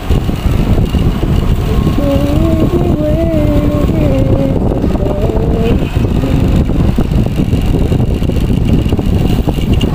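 Heavy wind noise buffeting a motorcycle helmet intercom's microphone while riding, a loud, fluttering low rumble over the motorcycle's running engine, with a wavering tone between about two and six seconds in. The helmet intercom has no noise cancellation, so the wind is picked up as it is.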